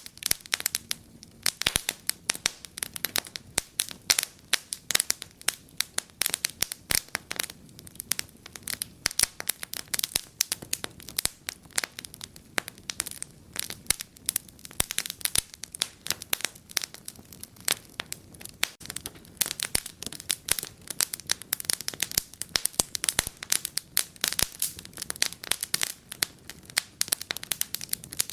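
Wood fire burning in a fireplace, crackling and popping with many sharp, irregular snaps over a low steady hiss.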